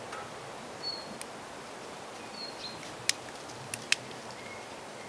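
Forest ambience with a bird repeating a short, high, clear note roughly every second and a half, plus a few lower notes. Four sharp clicks or knocks stand out as the loudest sounds, one about a second in and three between three and four seconds in.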